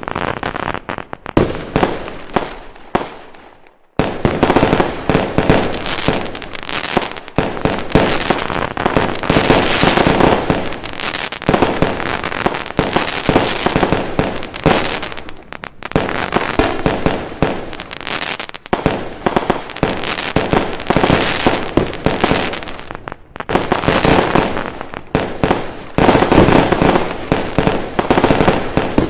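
Fireworks going off in dense, rapid volleys of bangs and crackling. The barrage thins out about three seconds in, then starts again abruptly about a second later and carries on in surging waves, with another sudden loud burst near the end.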